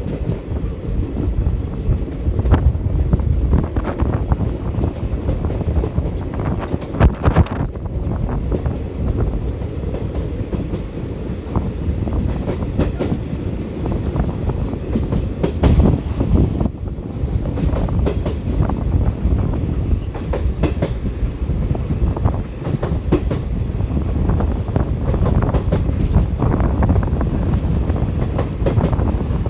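Train running along the track: a steady low rumble with wheels clattering over the rails.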